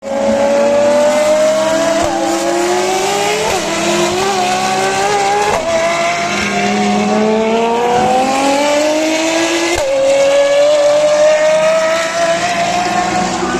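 Ferrari FXX V12 engine accelerating hard, its note climbing through the revs and dropping sharply at each of several quick upshifts.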